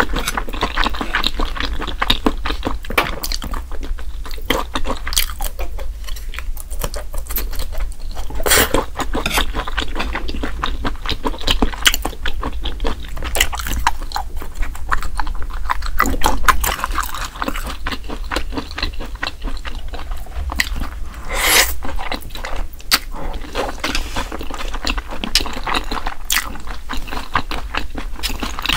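Close-miked chewing and wet mouth sounds of a person eating: a dense, irregular run of smacks and clicks, with a few louder smacks along the way.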